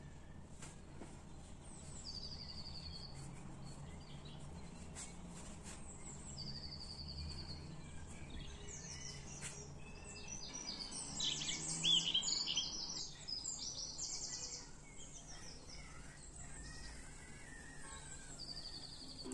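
Small birds singing: short high trills repeated every few seconds, with a louder run of rapid chattering calls about two-thirds of the way through, over a faint steady low hum.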